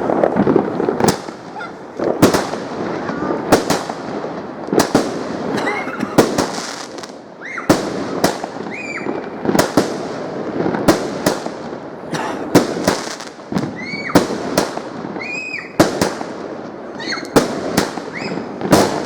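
Fireworks going off: a long run of sharp bangs and crackles, about one or two a second, with short whistling tones between them.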